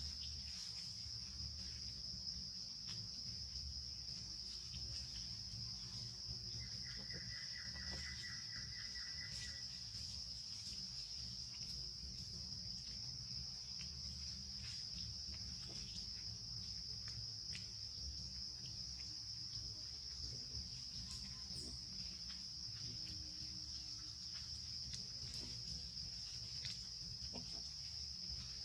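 Insects droning steadily at a high pitch, with a low rumble underneath. A short pulsing trill comes in about seven seconds in and lasts a few seconds.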